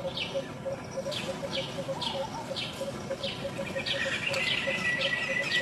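A bird calling over and over, a short falling chirp about twice a second, over a faster steady row of lower pips; a thin steady high whistle joins about four seconds in.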